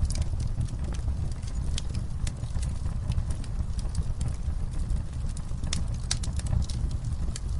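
Wood fire burning with a steady low rumble of flames and irregular sharp crackles and pops.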